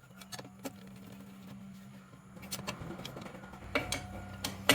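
Small metal clicks and clinks of screws and hand tools as bolts are fitted into a Honda Dio engine's casing, a handful of separate knocks over a steady low hum.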